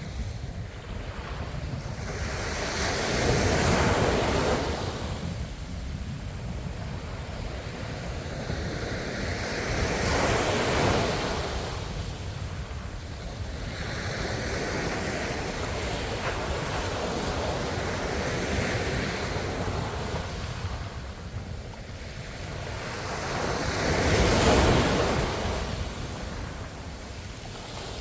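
Ocean waves breaking in slow surges, loudest about four, eleven and twenty-four seconds in, with a steady wash of surf between.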